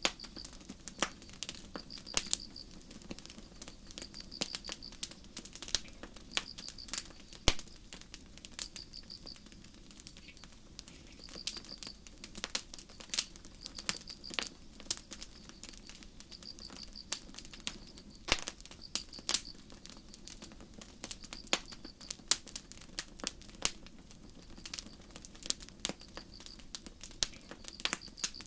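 Campfire crackling with frequent sharp pops over a low steady rumble, while crickets chirp in short pulsed trills repeating every second or two.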